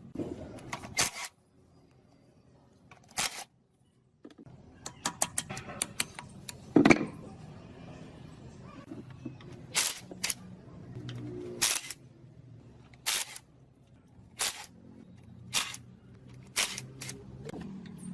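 A series of sharp clicks and knocks, like tools striking or tapping hard parts: a quick flurry about five seconds in, a louder knock near seven seconds, then single knocks about every second and a half.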